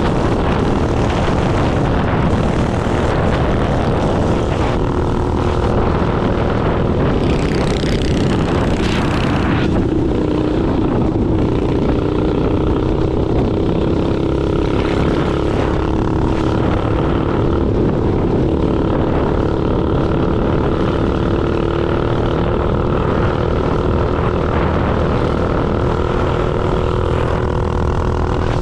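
Small minibike engine running steadily under way, its drone rising a little in pitch about ten seconds in, with wind rushing over the microphone.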